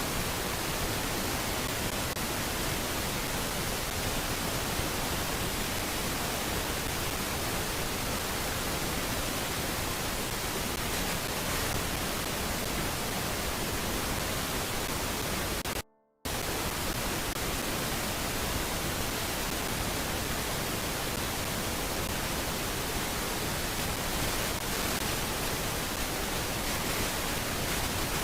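Steady, even hiss of noise across all pitches, with no bird calls heard. It cuts out completely for a fraction of a second about sixteen seconds in, then resumes unchanged.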